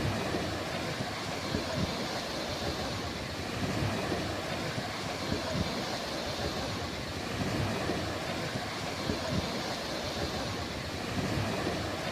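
Sea waves washing on the beach as a steady, unbroken hiss, with uneven low rumbles underneath.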